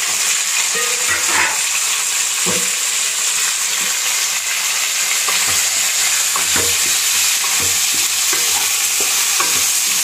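Drumstick (moringa pod) pieces sizzling in hot oil with the tempering in a kadai, stirred with a wooden spatula: a steady frying hiss with scattered short knocks of the spatula and pieces against the pan.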